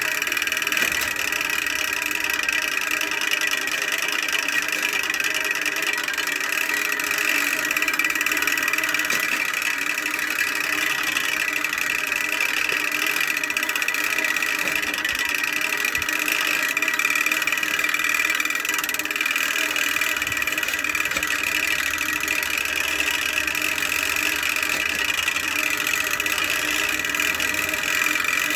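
Hand-cranked bicycle drivetrain spinning steadily, a continuous mechanical whirr that imitates an engine running.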